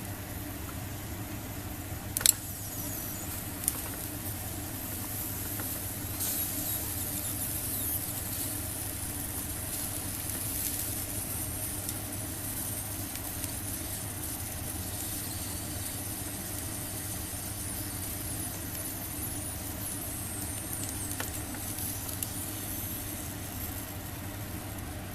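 Squid sizzling and crackling on a wire mesh grill over a solid-fuel burner, over a steady low hum. Two sharp clicks come about two and four seconds in.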